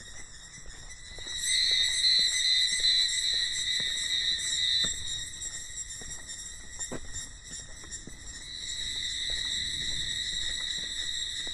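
Cicadas buzzing in a steady high-pitched drone that swells louder about a second in, eases off, and swells again near the end, over scattered faint taps.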